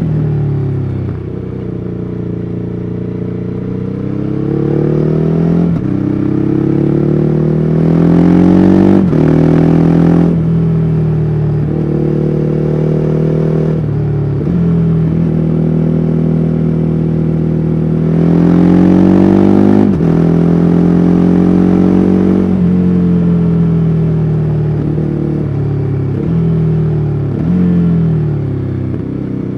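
2014 Ducati Hyperstrada's 821 cc L-twin engine under way, its revs climbing in repeated pulls, each broken by a gear change. The revs fall back and step down through the gears near the end.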